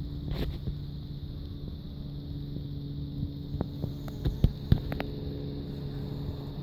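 Steady low hum of a honeybee colony at its hive entrance, with a few short sharp clicks between about three and a half and five seconds in.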